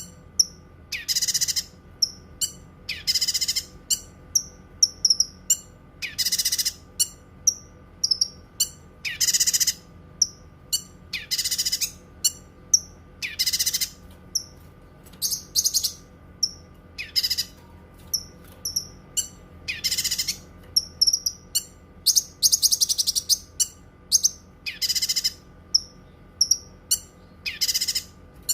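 Cucak kinoi singing: loud, rapid, chattering high phrases about every two seconds, with short sharp chirps in between.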